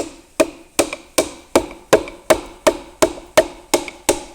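Hammer end tapping a piston down through a ring compressor into its cylinder: a steady run of sharp, even taps, about three a second.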